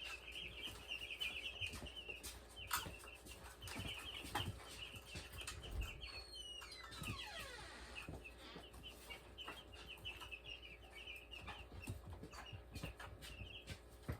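A brood of week-old meat-bird chicks peeping continuously, with a few light knocks scattered through.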